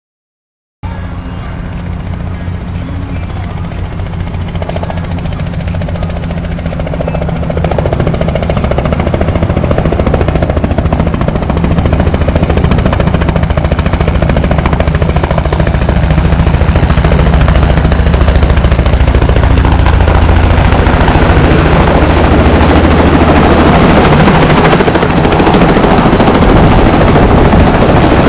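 Helicopter rotor and turbine engine starting about a second in and growing louder over several seconds, then running steadily: a fast low beat of the rotor blades under a high whine.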